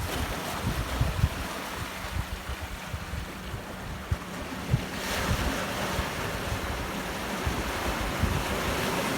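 Ocean surf breaking and washing up the beach on an incoming tide, a steady hiss that swells about five seconds in. Wind buffets the microphone with low thumps throughout.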